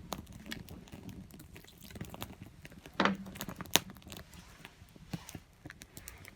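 Small wood fire crackling in a compact metal fire stand: irregular snaps and pops, with a louder knock about three seconds in and a sharp pop just after.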